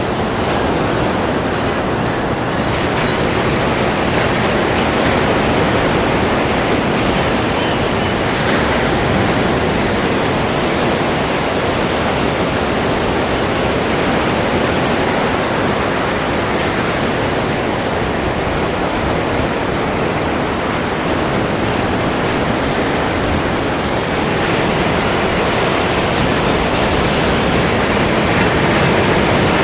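Ocean surf: a steady, dense wash of breaking waves, with only slight swells in loudness and no distinct single wave crashes.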